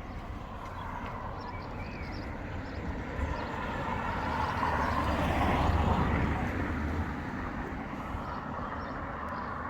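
A road vehicle passing by on the street, its engine and tyre noise growing louder to a peak about halfway through and then fading away.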